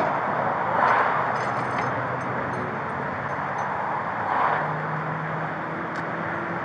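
Road traffic: a steady rush of vehicle noise, with cars passing about a second in and again about four and a half seconds in.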